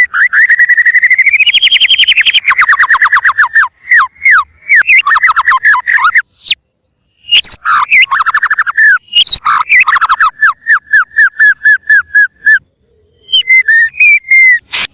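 White-rumped shama (murai batu) singing loudly in full song: fast rattling trills and runs of rapidly repeated whistled notes, broken by two short pauses.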